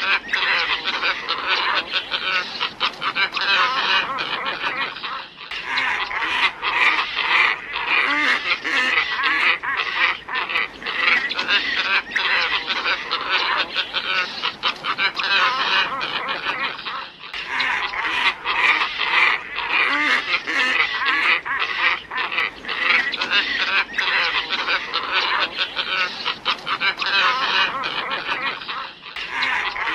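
Recorded flock of glossy ibises calling, a dense run of overlapping nasal, honking calls used as a bird lure. The recording loops, with a short break about every twelve seconds.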